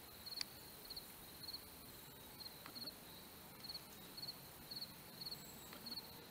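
A cricket chirping faintly and steadily, short pulsed chirps at one high pitch, about two a second. A single faint click about half a second in.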